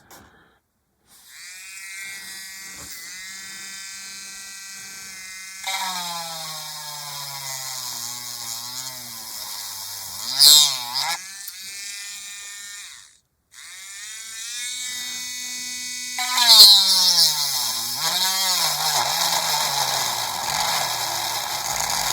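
Small Dspiae electric hand drill with a Dremel bit boring into thick plastic, its motor whine dropping in pitch and wavering as the bit bites. It runs twice, stopping briefly about 13 seconds in before starting again.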